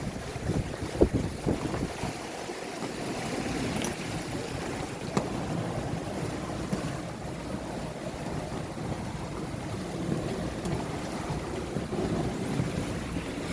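Sailing yacht under sail at speed: steady rush of water along the hull and wind buffeting the microphone, with a single knock about a second in.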